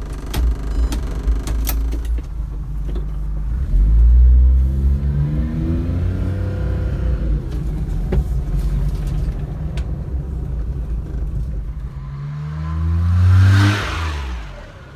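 Suzuki Every van's small three-cylinder engine running and revved twice. Its pitch climbs from about four seconds in, holds, then rises again near the end before falling away. A few clicks are heard at the start.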